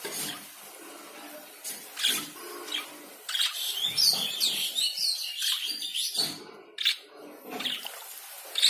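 Budgerigar chirping, a dense run of quick chirps from about three to six seconds in, with single sharp calls before and after.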